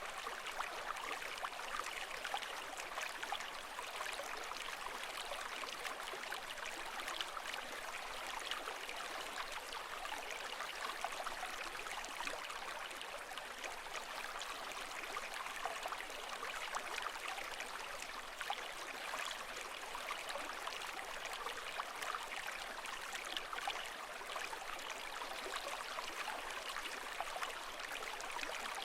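Running water: a steady, unbroken trickling and splashing with no surges or swells.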